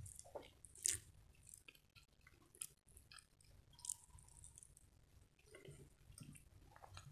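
Quiet, close-miked eating sounds: soft, wet chewing of canned corned beef with sharp mouth clicks and smacks, the loudest about a second in and another about four seconds in, along with fingers picking food off a plate.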